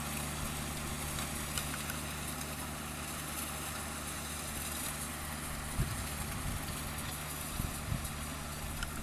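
Kubota DC-35 combine harvester's diesel engine idling steadily, with a few short low knocks about six and eight seconds in.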